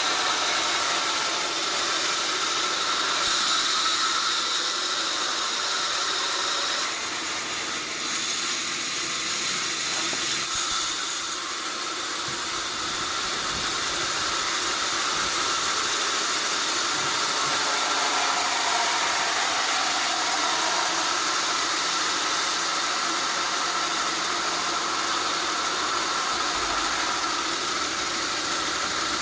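Sawmill machinery running steadily: a continuous mechanical hiss with a steady high whine over it.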